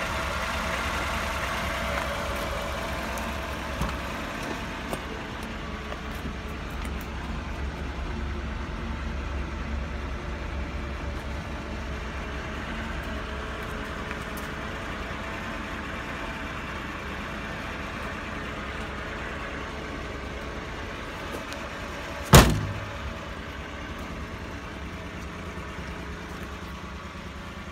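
Mitsubishi Minicab mini-truck's engine idling steadily. A single sharp knock about 22 seconds in is the loudest sound.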